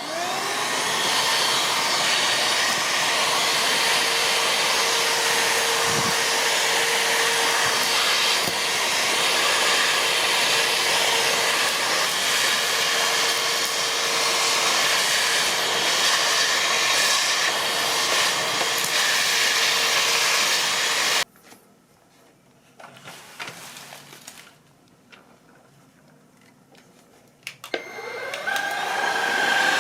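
Catchwell CV6 Plus cordless stick vacuum running: the motor spins up with a rising whine, runs steadily for about twenty seconds, then cuts off suddenly. After a few seconds of light handling knocks it starts up again near the end, its pitch climbing.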